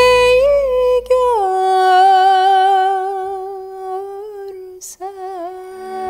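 A female voice sings long wordless held notes, with ornamental turns and vibrato in a Turkish art-song style. The melody steps down in pitch about a second in and pauses briefly for breath near the end. Soft low accompaniment drops away early on and comes back in at the close.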